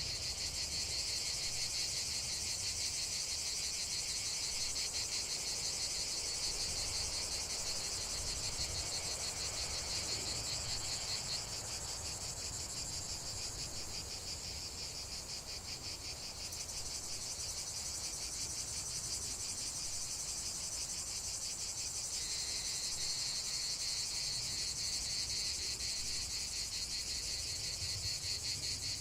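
A steady chorus of crickets chirping, a dense, fast-pulsing high trill of many insects. About a third of the way in one layer of the chorus drops out, and it fills back in about two-thirds of the way through.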